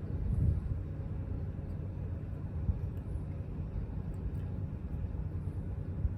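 Yamaha Tricity 155 scooter's single-cylinder engine running steadily, a low, even hum.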